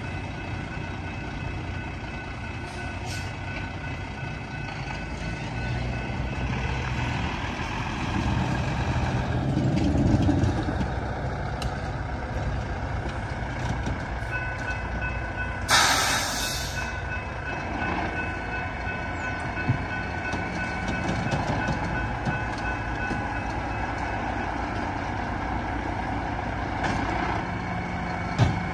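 Wheeling & Lake Erie freight train rolling past: a steady rumble of locomotive engine and cars, with high whining tones through much of it. A short burst of air hiss comes about sixteen seconds in.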